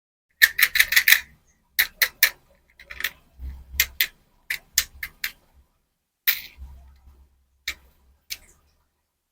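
Small hard candies and their plastic packaging clicking and tapping as they are handled: a quick run of about five clicks about half a second in, then scattered single and paired taps.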